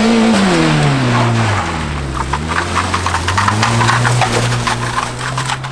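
A battered car's engine revving up and falling back, then picking up again and holding a steady speed, with rattling and clicking as it drives.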